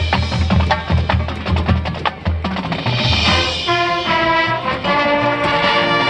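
Marching band playing: a run of sharp drum-line strokes, then brass taking up sustained chords from about halfway through.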